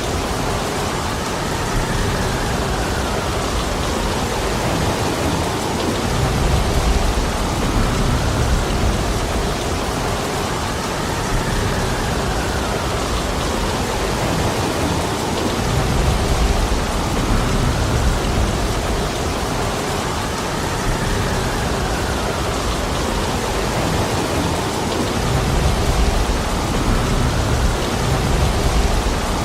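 Heavy rain falling steadily as a dense hiss. A low rumble swells and fades about every nine seconds.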